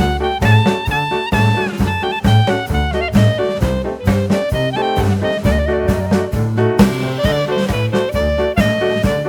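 Live band music: a shrill lead melody of held notes over a steady bass and drum beat.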